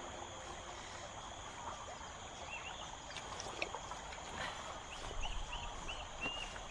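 Soft outdoor ambience with small birds chirping: a few short high chirps about two and a half seconds in, then a quick run of five or six near the end.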